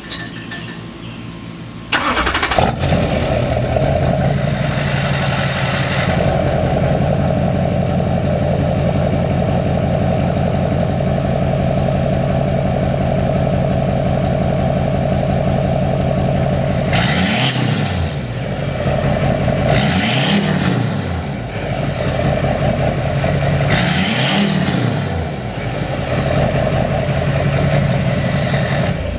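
A 2004 Duramax LLY 6.6-litre V8 turbodiesel running through a 5-inch exhaust with an 8-inch tip: it starts about two seconds in and idles steadily, then is revved three times near the end, each rev rising and falling with a high whistle falling away after it.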